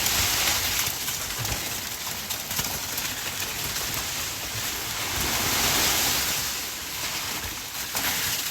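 Icy storm precipitation falling and hitting surfaces: a steady hiss that swells and fades again about five to six seconds in, with scattered small ticks.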